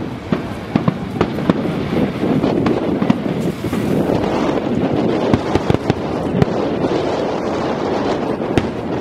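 Fireworks going off: a steady run of sharp cracks and pops over a dense crackle that builds up in the middle.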